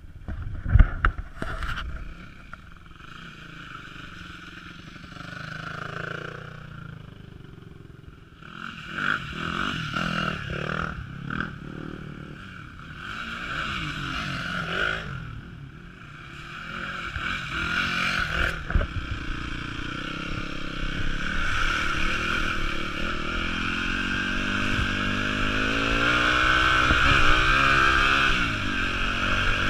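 Yamaha WR250F single-cylinder four-stroke trail bike engine running and revving on a muddy woodland track, its pitch rising and falling with the throttle and growing louder toward the end. In the middle come irregular splashing and knocking noises as a bike rides through a puddle.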